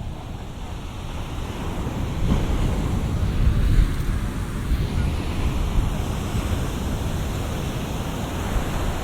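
Big surf breaking and washing up the beach, picked up on a binaural microphone, swelling to its loudest about three to four seconds in, with wind rumbling on the microphone.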